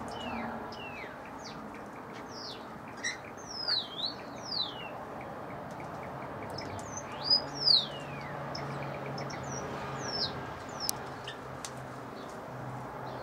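Small aviary birds calling: a scattered string of sharp, downward-sliding whistled chirps, the loudest pair about seven to eight seconds in.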